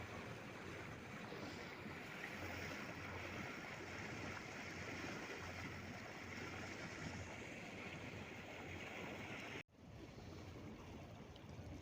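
Steady rushing outdoor noise, cut off for a split second about ten seconds in and then resuming slightly quieter.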